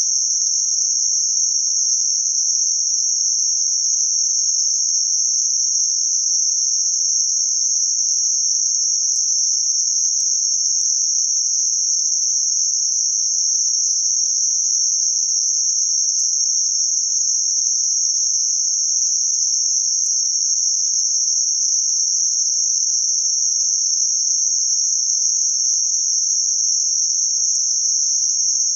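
Synthetic band-limited noise centred around 6 kHz: a steady, high-pitched hiss confined to a narrow band, unchanging throughout.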